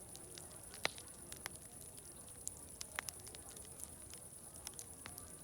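Crackling fire: sharp pops and snaps at irregular intervals, the loudest about a second in and about three seconds in. Underneath are a faint murmur of distant crowd chatter and a steady high-pitched drone.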